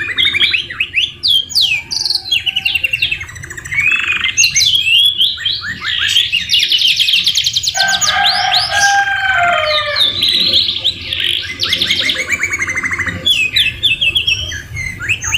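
Domestic canary singing a continuous, loud song of fast trills and rolls, its phrases filled with white-rumped shama (murai batu) notes it has learned, including a lower warbling phrase about halfway through.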